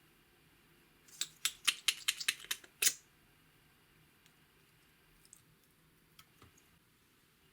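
A quick run of about nine sharp clicks and taps lasting under two seconds, the last one loudest, then a few faint scattered clicks.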